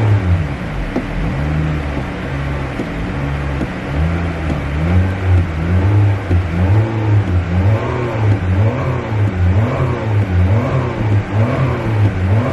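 Car engine being revved in repeated short throttle blips, its pitch rising and falling about once a second.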